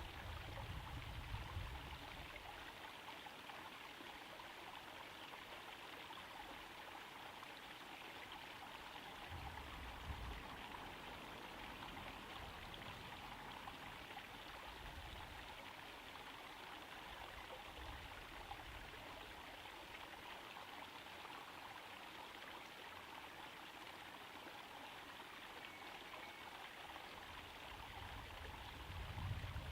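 Water from a small garden-pond waterfall trickling and splashing steadily into the pond, with a few brief low rumbles near the start, about ten seconds in, and at the end.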